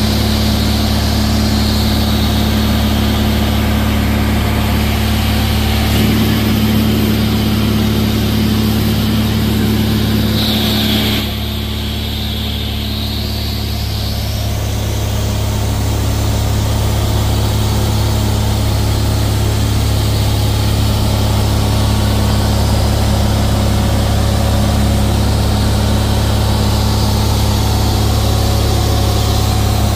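Cessna 172's four-cylinder piston engine and propeller droning steadily inside the cockpit, with airflow noise. About a third of the way through, the sound briefly drops and thins, then builds back over a few seconds.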